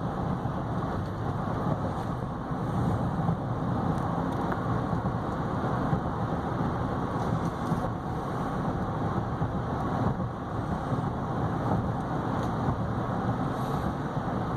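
Steady road and tyre noise with a low drone, heard inside the cabin of a 2015 GMC Yukon Denali XL cruising at constant speed on cruise control; quiet, with no knocks or whines.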